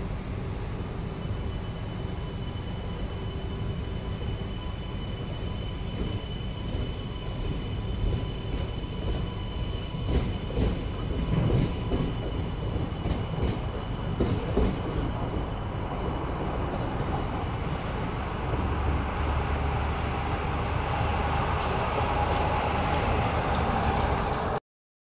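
E2 series Shinkansen train running past on an elevated track: a steady rumble with a faint high whine, and a run of wheel clicks and knocks in the middle. The sound cuts off abruptly near the end.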